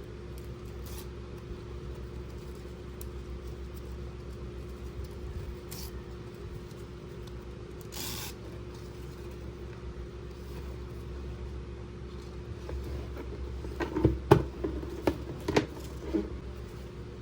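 Hard plastic toy pieces being handled: a short rustle about eight seconds in, then a quick run of sharp clicks and taps near the end. A steady low hum runs underneath.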